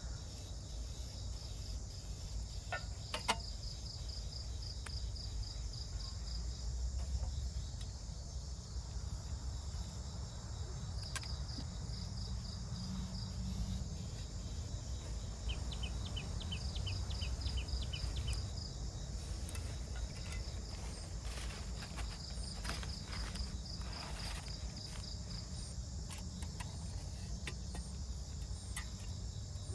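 Forest insects chirping in repeated rapid trains of high pulses, with a second, faster-pulsing insect joining for a couple of seconds past the middle. Underneath runs a steady low rumble, and there is a single sharp click about three seconds in.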